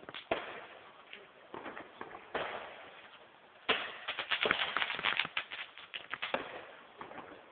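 Fireworks going off: a sharp bang just after the start and scattered pops, then from about halfway a dense run of rapid crackling pops lasting some three seconds.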